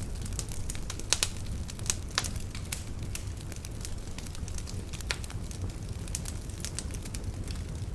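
Wood fire burning in a fireplace: a steady low rumble of flame with irregular crackles and pops from the burning logs, a few louder pops between one and two seconds in.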